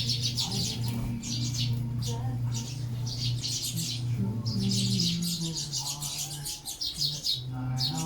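Sparrows chirping busily at feeding time: dense runs of rapid high chirps, with short breaks near the middle and near the end.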